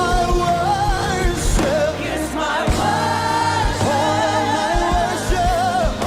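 Live worship music: sung vocals over a band with steady low drum beats and held keyboard chords.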